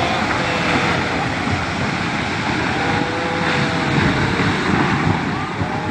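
Fast-flowing flash floodwater rushing steadily and loudly, a dense continuous noise with no letup.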